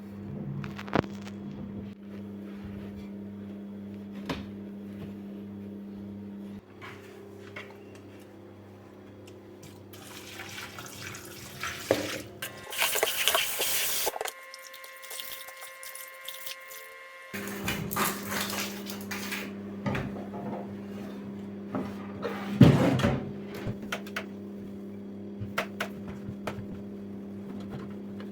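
Kitchen cleaning sounds: a tap runs for a couple of seconds about halfway through, with scattered clatter and knocks of dishes and cupboards, the loudest knock near the end, over a steady hum.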